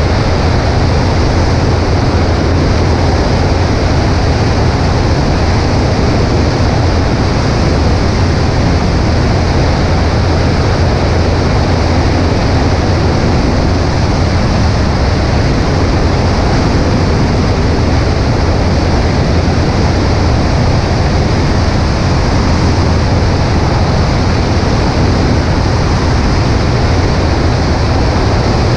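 Cessna 140A light aircraft in steady flight: the engine and propeller drone evenly under a loud, constant rush of wind over the microphone.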